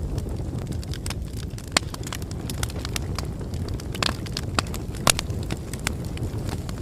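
Bonfire crackling: a steady low rumble of burning with irregular sharp pops and snaps, a few louder pops scattered through.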